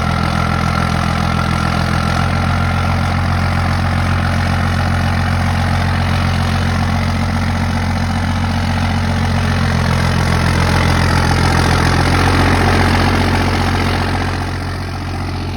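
24-valve Cummins 5.9-litre inline-six turbodiesel idling just after a cold start. It runs steadily, swells a little about two-thirds of the way in, then settles a touch quieter near the end.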